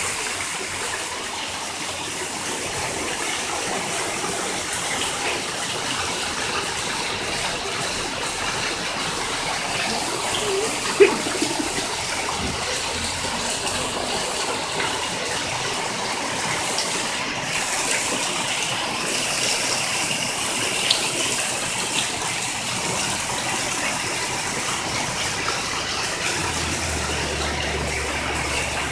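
Steady rushing of running water, an even unbroken hiss, with a single sharp knock about eleven seconds in.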